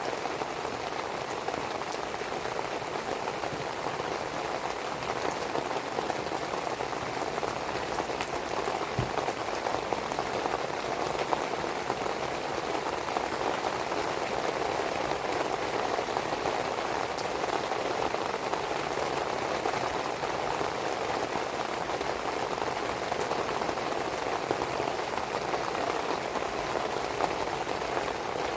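Steady rain falling and pattering on a surface, mixed with the occasional faint pop and crackle of a wood fire burning.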